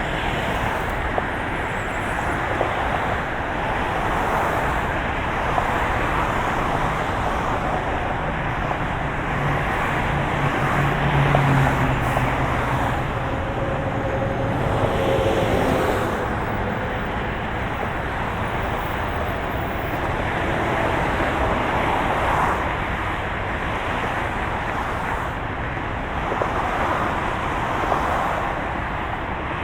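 Steady road noise of a moving car, an even rushing hiss, with a low engine hum that stands out for a few seconds about ten seconds in.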